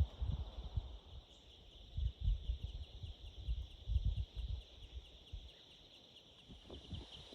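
Night insects trilling steadily in a high, pulsing chorus, with irregular low rumbles of wind gusting on the microphone.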